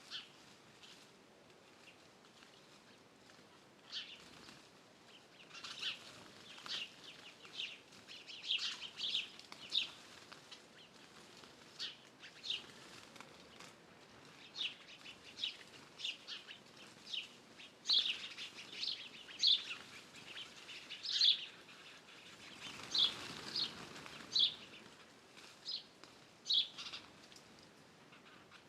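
Wild songbirds chirping and calling: short high notes, sparse at first, then coming every second or so. About three-quarters of the way through, a soft rushing noise lasts about two seconds under the calls.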